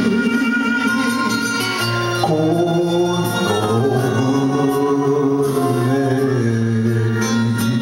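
Shigin, Japanese chanted poetry: singing in long held notes that step from pitch to pitch over a continuous musical accompaniment.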